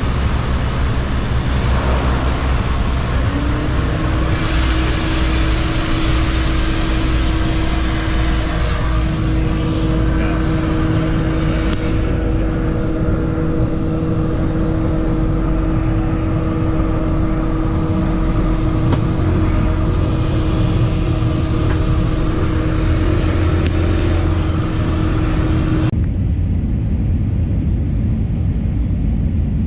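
Airliner cabin noise during an approach to landing: steady engine and airflow rumble with a steady humming tone over it. Near the end the hiss in the upper range cuts out suddenly, leaving a duller rumble.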